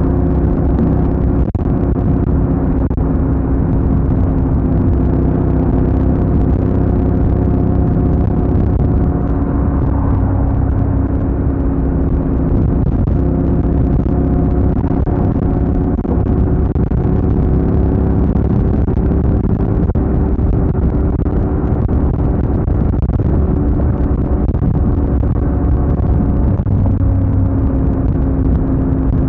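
Honda NC750X's parallel-twin engine running under way, its pitch holding fairly steady, with a dense low rumble of road noise underneath.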